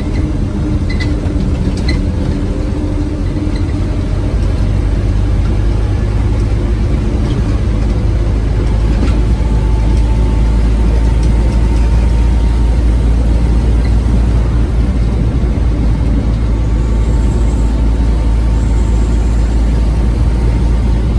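Scania OmniCity bus engine running steadily with a deep rumble. A few light clicks and rattles come about a second in, and a faint steady whine joins about nine seconds in.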